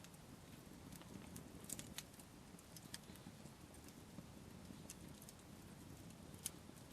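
Wood campfire crackling faintly, with sparse sharp pops about once or twice a second, the loudest near the end, over a low steady background rumble.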